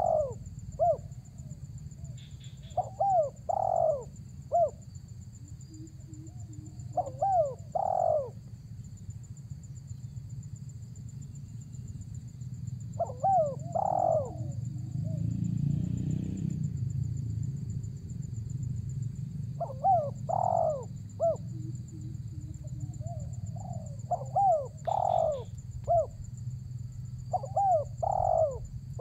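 Spotted dove (tekukur) cooing: short phrases of a few coos repeated about every four to seven seconds, the calling song of a male answering a rival. A steady low hum runs underneath.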